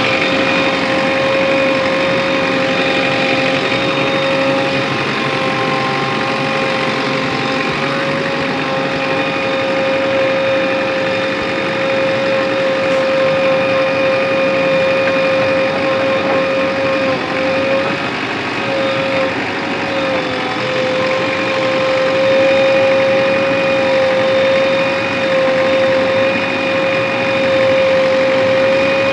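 JCB 3DX backhoe loader's diesel engine running steadily under work, with a strong constant whine and a slight wavering in pitch about two-thirds of the way through.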